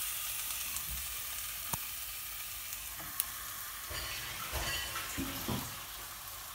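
Raw chicken pieces sizzling in hot oil with fried onions and spices in a nonstick pot: a steady high hiss, with a few light knocks.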